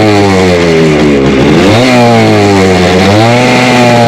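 Motorcycle engine revving while stationary: the revs drop, snap up sharply about two seconds in, sag again, then climb and hold steady near the end.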